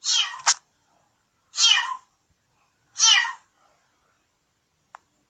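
Three high-pitched animal cries, each about half a second long and falling in pitch, coming about a second and a half apart. A short sharp click sounds near the start and another near the end.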